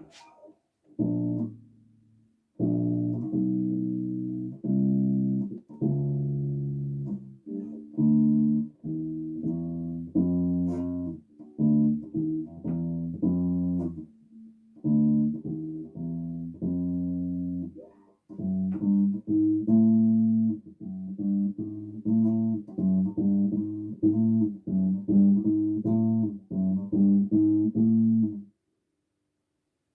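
Bass guitar played solo: a run of plucked notes and short phrases with a few brief pauses, stopping shortly before the end.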